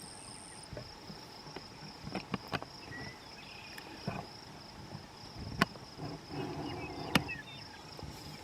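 Crickets chirping in a steady chorus, with a few sharp knocks, the loudest about five and a half and seven seconds in, and a few faint bird chirps.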